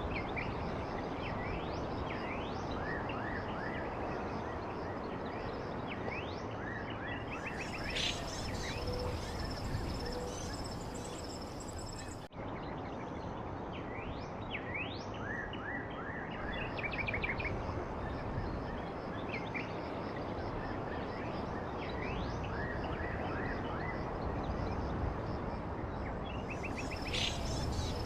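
Songbirds chirping: many short, high chirps and quick sweeps, over a steady background hiss. About twelve seconds in, the sound dips out briefly.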